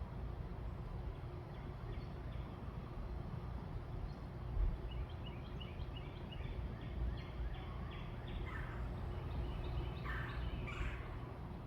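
Birds calling over a steady low background rumble: a quick run of short repeated notes about halfway through, then a few louder calls near the end.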